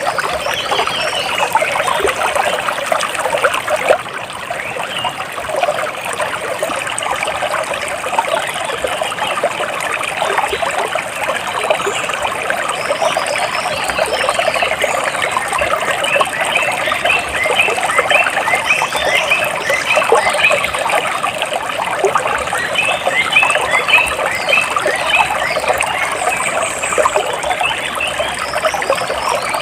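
Water splashing and trickling steadily, with two runs of quick, repeated bird chirps over it in the second half.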